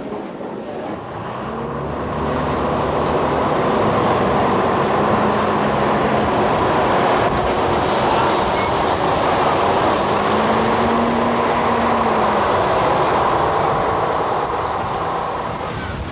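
Road traffic: a motor vehicle's engine and tyre noise builds, runs steadily, then eases off toward the end, with a few brief high squeaks around the middle.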